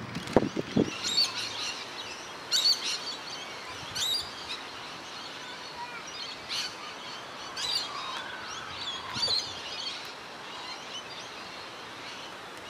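Wild birds calling: short bursts of warbling, chirping song every second or two over a steady outdoor background hum. A few short low thuds in the first second are the loudest sound.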